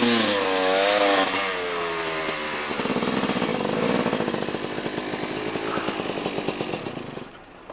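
Motorcycle engine revving hard, its pitch dropping and wavering up and down, then running on with a rougher rasp until it drops away near the end.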